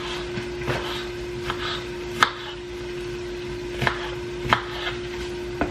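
Knife dicing tomatoes on a cutting board: about six sharp, unevenly spaced chops.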